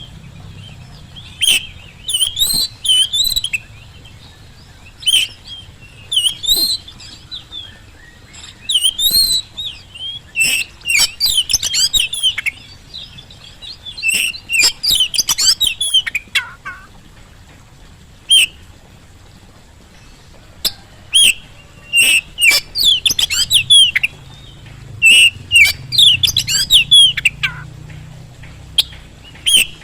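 Oriental magpie-robin (kacer) in full song: short bursts of rapid, varied whistles and chirps, coming in clusters every second or two, with a few seconds' pause in the middle.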